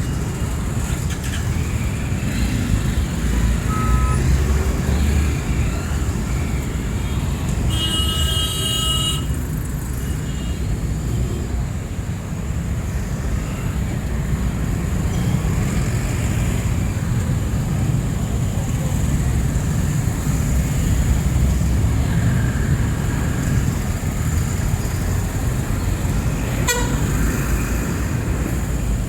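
Steady rumble of street traffic, with a vehicle horn tooting for about a second some eight seconds in and a shorter, fainter beep a few seconds earlier.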